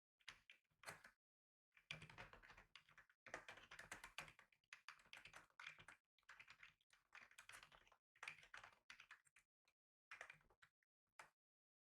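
Typing on a computer keyboard: quick runs of key clicks in bursts of a second or two with short pauses, stopping shortly before the end.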